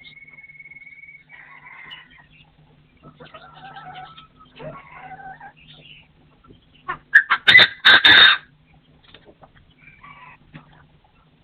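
Partridges calling: a held whistled note at the start, then a scatter of shorter calls, with the loudest, harsh crowing calls bunched about seven to eight seconds in.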